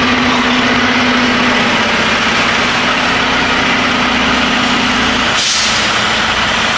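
Semi truck's diesel engine idling with a loud, steady noise and a steady hum that stops about five seconds in, followed right away by a short hiss.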